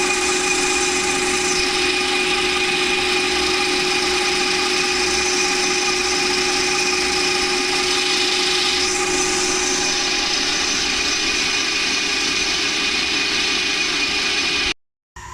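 A power tool running steadily on steel, with a constant whine over a hissing noise. It cuts off abruptly near the end.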